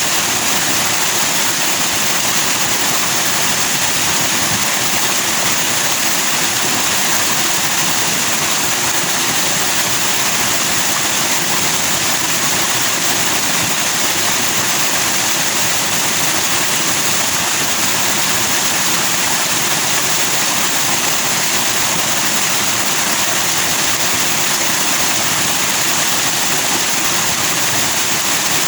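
Forest stream flowing fast over rocks with white foam, a steady rushing hiss that stays even throughout.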